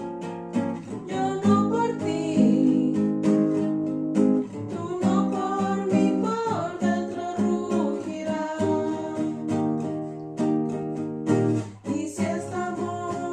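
Acoustic guitar music, with notes and chords plucked and strummed throughout.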